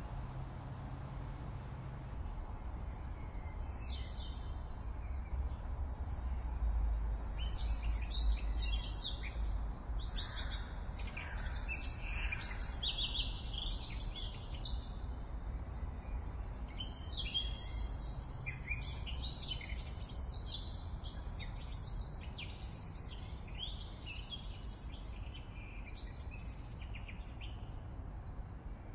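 Birds chirping outdoors: many short, high chirps in quick runs, over a steady low rumble.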